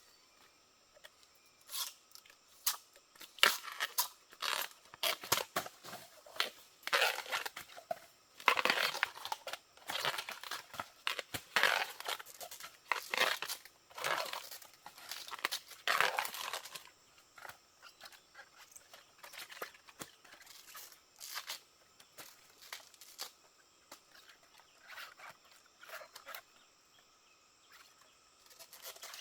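Bamboo shoot husks being torn off by hand: an irregular run of rips and crackles, busiest in the middle and thinning out toward the end.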